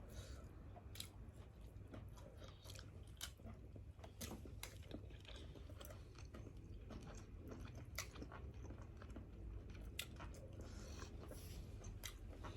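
Someone chewing and biting grilled seafood close to the microphone, with scattered small crunches and clicks.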